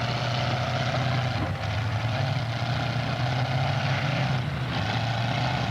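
Demolition derby car engines running together in a steady low drone with rough noise over it.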